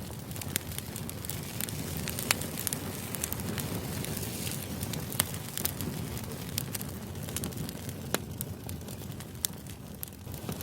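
White-noise background track: a steady low rumbling hiss with frequent irregular sharp crackles and pops.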